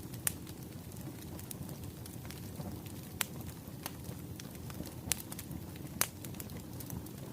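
Wood fire crackling: a steady low rumble of burning logs with scattered sharp pops, the loudest about six seconds in.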